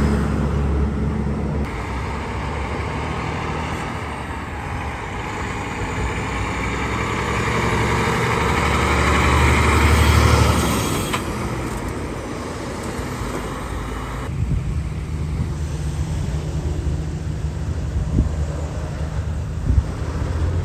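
Road traffic, with a vehicle passing close by: engine and tyre noise build to a peak about halfway through, then fade away over a steady low engine hum.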